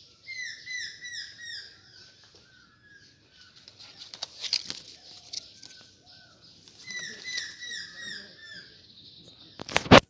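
A bird singing runs of short, falling whistled notes, about four a second, two runs with a pause between. Small clicks and rustles come in the middle, and a sudden loud bump, the loudest sound, just before the end.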